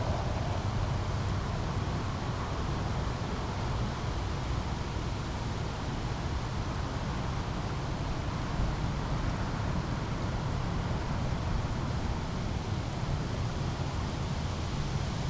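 Small brook flowing steadily, a continuous rushing hiss over a low, steady rumble.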